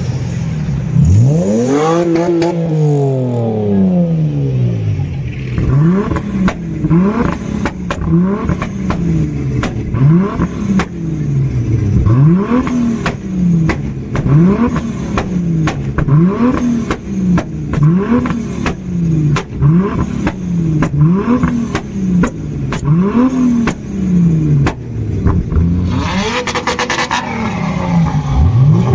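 A performance car engine revved hard once, then blipped over and over at about one rev a second, with sharp crackling pops throughout, and revved up again near the end.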